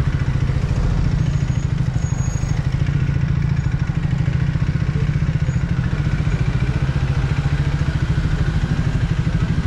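Triumph Speed 400's single-cylinder engine idling steadily, heard close from the rider's own bike.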